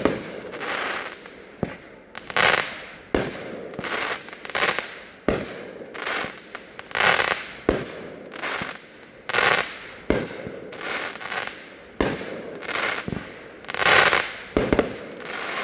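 Consumer multi-shot fireworks cake, "Comrades", firing a string of shots about one every second or so, each a sharp pop followed by a noisy burst lasting under a second. The shots stop near the end.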